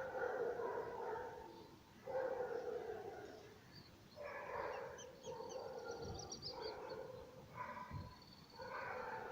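An animal calling over and over, each call about a second long with a steady pitch, about every two seconds, while small birds chirp faintly in the middle.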